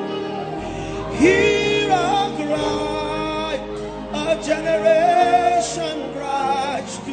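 Gospel worship music: a singer holds and slides between long, wavering notes over sustained chords.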